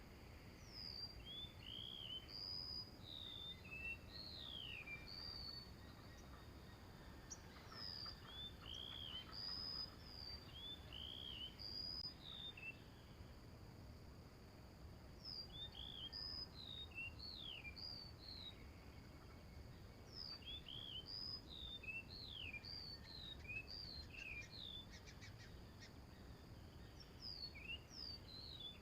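Small birds calling: many short high chirps and quick falling whistled notes, coming in bursts with a couple of brief lulls, over faint low background noise.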